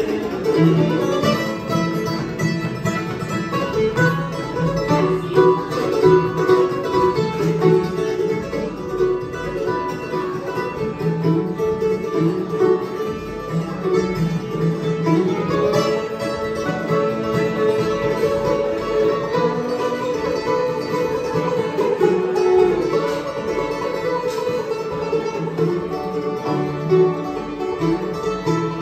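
Bluegrass string band playing an instrumental passage on plucked acoustic strings, guitar to the fore.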